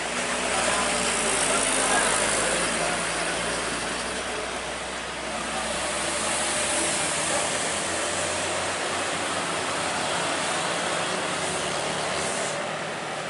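A motor vehicle engine running, with steady rushing road noise.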